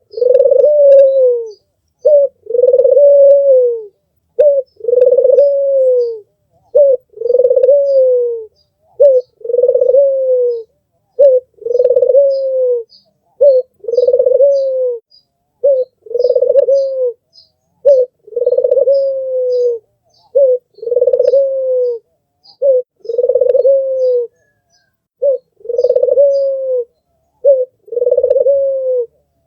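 Albino Barbary dove (puter) cooing over and over, a short note then a long falling coo, about once every two seconds. Faint high chirps of small birds sit behind it.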